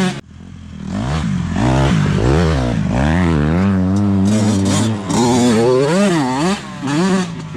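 Dirt bike engine revving, its pitch rising and falling several times as the throttle is opened and closed.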